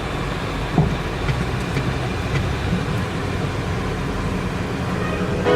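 Car running, heard from inside the cabin: a steady low rumble with a few faint clicks.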